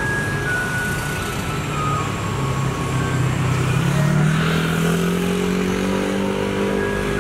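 Garbage truck's engine running and then speeding up, its pitch rising about three and a half seconds in, while the truck's loudspeaker melody plays faintly.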